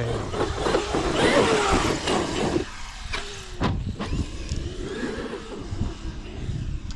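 Off-road vehicle driving over a rough trail: the engine runs under wind and tire noise, with pitch rising and falling early on, and a few sharp knocks from bumps a little past the middle.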